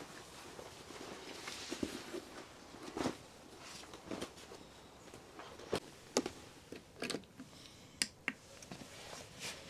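Scattered light clicks and knocks at irregular intervals, a dozen or so short sharp taps, as of objects being handled.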